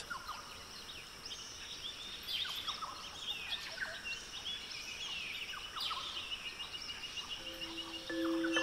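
Small birds chirping and calling: quick high sweeping notes and a fast trill over a faint background hiss. A low held music tone comes in near the end.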